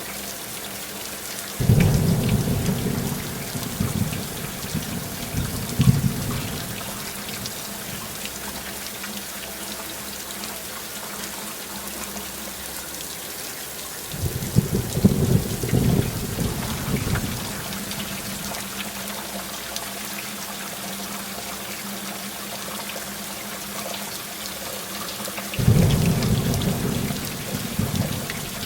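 Heavy rain falling steadily, with thunder rumbling three times, each rumble starting suddenly and lasting a few seconds, about twelve seconds apart.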